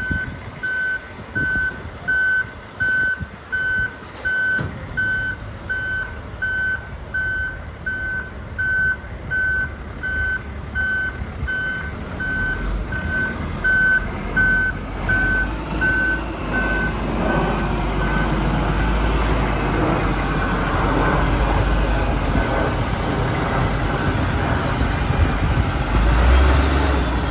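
Backup alarm of a 2002 Elgin Broom Bear sweeper truck beeping steadily, about one and a half beeps a second, over the truck's running engine. The beeping fades out after about 17 seconds while the engine and machinery noise grows louder.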